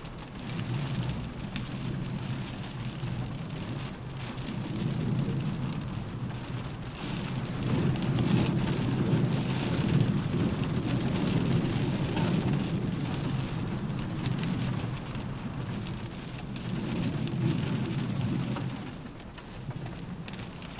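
Rain drumming on a car roof with wind howling, a dense, low-pitched rush that swells and eases in gusts, heaviest around the middle of the stretch and again briefly near the end.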